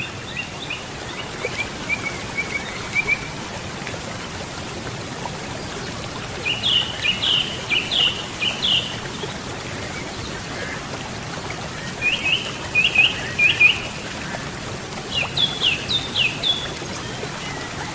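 River water running steadily, with a songbird singing four short phrases of quick chirped notes: one as it begins, then about seven, twelve and fifteen seconds in.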